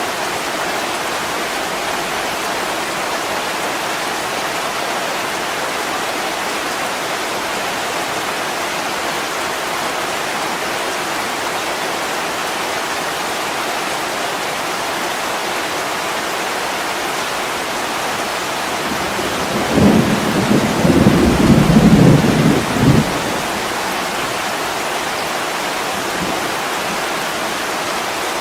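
Heavy rain falling steadily as an even hiss. From about 19 seconds in, a rumble of thunder rolls for about four seconds, louder and deeper than the rain.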